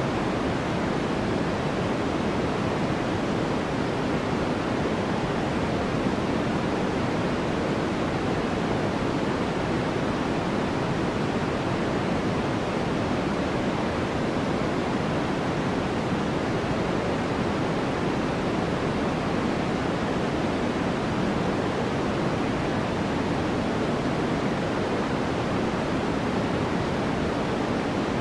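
Steady white noise: an even, unbroken hiss that never changes, fuller in the lower and middle range than at the top.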